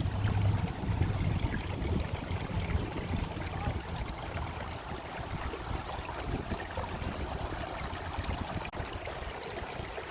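Shallow creek water running over rocks, a steady rushing and babbling, with some low rumbling in the first couple of seconds.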